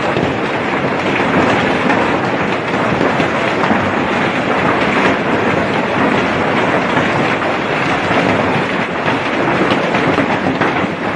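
Heavy rain with large hailstones pelting down: a loud, steady, dense clatter of many impacts.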